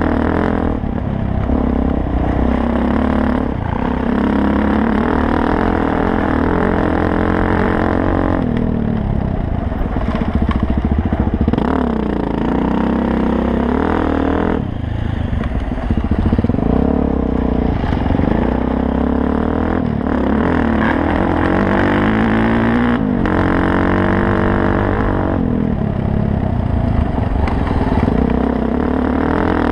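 2000 Suzuki DRZ400S's single-cylinder four-stroke engine running under load on a rocky dirt road, its revs rising and falling with the throttle. The engine note eases off briefly three times, about a third of the way in, near the middle and near the end.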